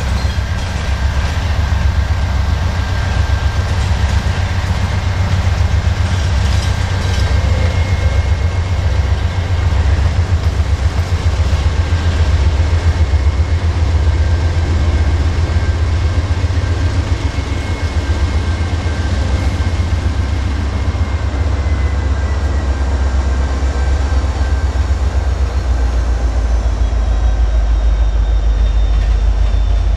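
Norfolk Southern freight train passing close by: a heavy, steady low rumble from the diesel locomotives and the cars rolling on the rails, with a faint steady high whine above it.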